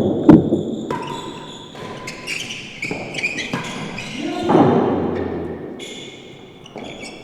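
Real tennis ball strikes echoing in the enclosed hall-like court: a sharp hit right at the start and another about a third of a second later, each with a long echo. About four and a half seconds in, a further louder sound swells up and slowly fades.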